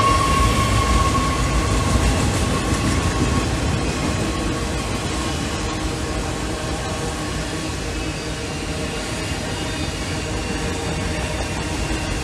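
Autorack freight cars rolling past on the rails: a steady rumble and rattle of wheels and car bodies that eases off slightly over the first few seconds and then holds. A high ringing tone fades away over the first three seconds or so.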